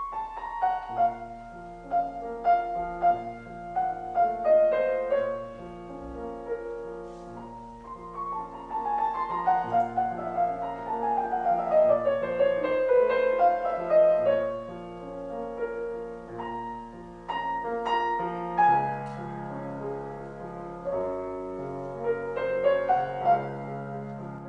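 Background piano music, a slow melody with sustained chords and a descending run of notes partway through.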